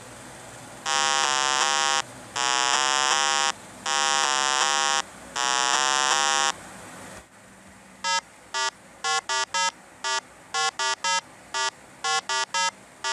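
Electronic buzzer-like tones: four long buzzing tones, each warbling rapidly, followed by a quick, uneven run of short beeps.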